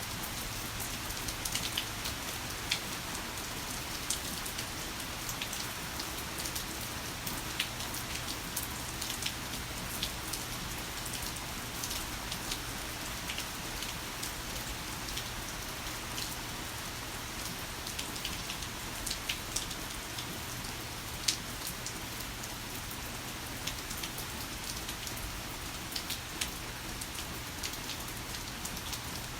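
Heavy rain falling steadily, a dense even hiss with scattered sharp drop splats.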